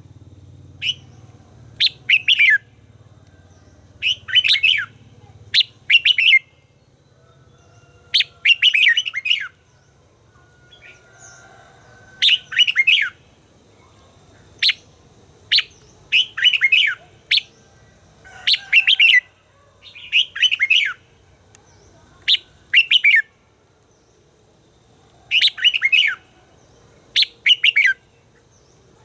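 Red-whiskered bulbul singing: short, bright warbled phrases, each about half a second to a second long, repeated every second or two with a few longer pauses between them.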